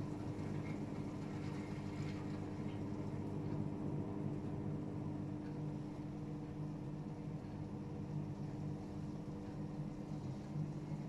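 AEG Öko Lavamat 76910 washing machine running mid-cycle, its inverter-driven three-phase motor giving a steady hum with several constant tones.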